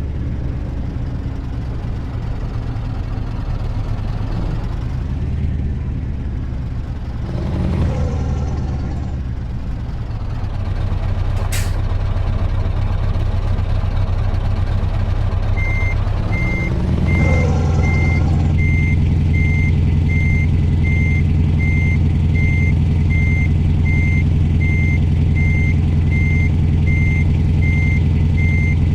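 Scania truck's V8 diesel engine running, with one brief sharp sound about a third of the way in. A little past halfway a reversing alarm starts beeping at a steady, regular rate, and the engine note grows louder and holds steady.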